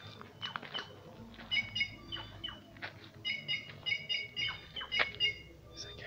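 Birds calling, with quick runs of short, repeated high chirps and sharp downward-swept notes coming in several bursts.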